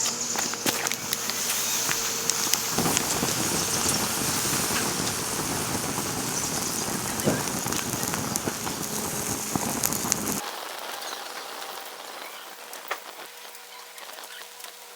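Cast iron pot of lamb and red wine cooking over an open fire and coals: a steady sizzling hiss with scattered crackles. It cuts off abruptly about ten seconds in, leaving a quieter background.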